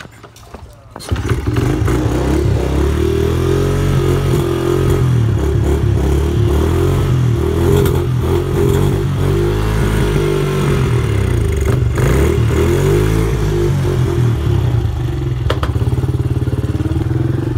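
Dirt bike engine starting about a second in, then running steadily with the revs rising and falling a little.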